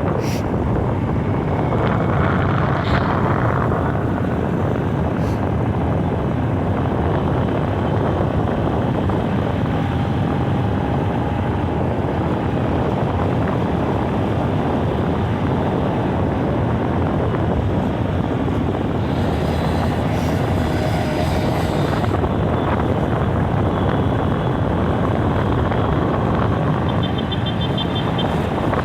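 A vehicle running steadily: a loud, even rumble with no clear rise or fall in engine pitch.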